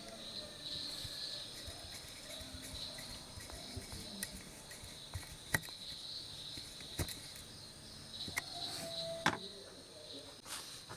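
Steady, high-pitched chirring of insects, with about five sharp clicks scattered through the second half.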